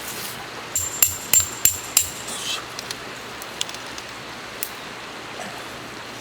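About five quick metallic knocks with a high ringing tone, about a second in, followed by a short scrape and a few faint clicks, over a steady background hiss.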